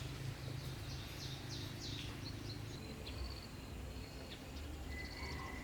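Small birds calling: a quick run of falling chirps, then short high whistled notes and a lower held whistle near the end, over a steady low hum.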